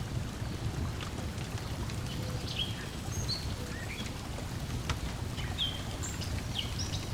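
Layered lakeside ambience: small birds chirping in short, quick rising and falling notes over a steady low wash of lapping water, with scattered pops and crackles of a wood fire.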